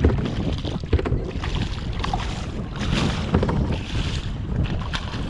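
Wind buffeting the camera microphone around a kayak on the water, with splashing and a few sharp knocks on the hull, one right at the start, one about a second in and one near the end.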